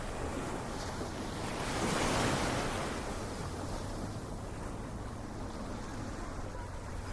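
Ocean surf: a wave swells and breaks about two seconds in, then washes back into a steady rush of water.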